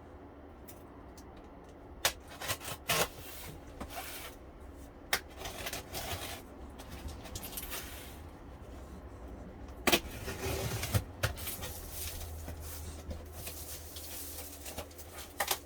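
A boxed flexible solar panel and its packaging being handled and unpacked: scattered rubs, scrapes and knocks, the sharpest about two, three, five and ten seconds in.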